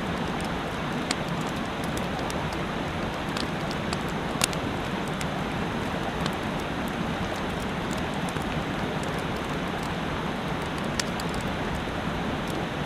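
Steady rush of a mountain stream with a wood campfire crackling over it, a sharp pop every second or so and one louder snap a little past four seconds in.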